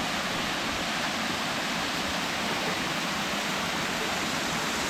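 Small jungle waterfall with a steady rushing sound of water falling over rocks.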